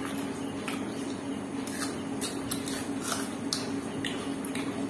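Close-miked chewing and lip-smacking of a dry chickpea (chana) dish eaten by hand: short wet clicks and smacks, irregular at about two or three a second, over a steady low hum.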